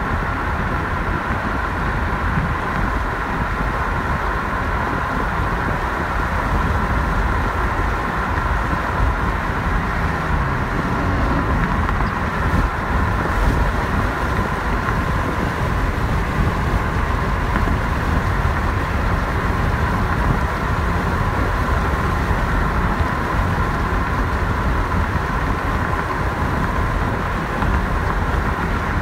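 Freight train of boxcars, covered hoppers and tank cars rolling past in a steady, unbroken run, heard from beside a car. It makes a constant low rumble with a steady high-pitched ringing over it.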